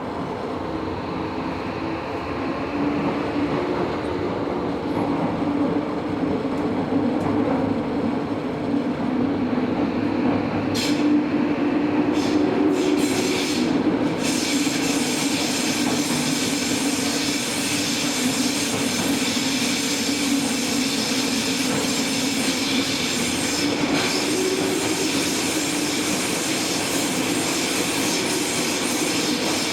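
Tobu 70000 series electric train running, heard from inside the car: a steady rumble and hum that grows louder over the first few seconds. A few brief high-pitched wheel squeals come between about 11 and 14 seconds in.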